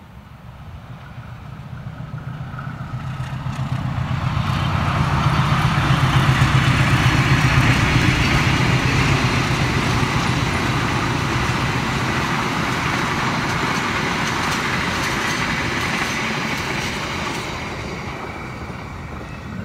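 Argo Muria express passenger train passing at high speed behind a diesel locomotive. The sound swells as the train approaches, with a low engine note loudest a few seconds in, then the steady rush and clatter of the coaches' wheels on the rails, fading near the end.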